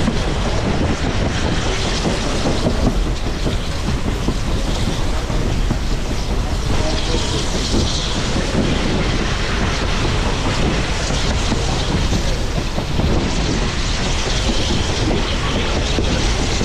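Excursion passenger train rolling along at speed, heard from on board: a steady rumble of the wheels on the track with clickety-clack over the rail joints.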